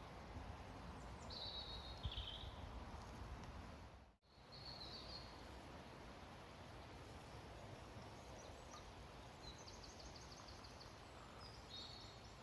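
Quiet woodland ambience with small songbirds chirping now and then high up, including a quick trill of repeated notes about two-thirds of the way through. A single sharp knock about two seconds in is the loudest sound, and everything drops out for a moment just after four seconds.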